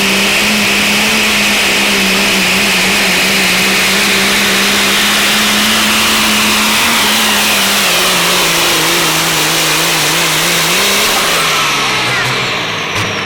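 Loud diesel pulling truck's engine running hard under load, holding a steady pitch that sags a little past halfway and then fades near the end.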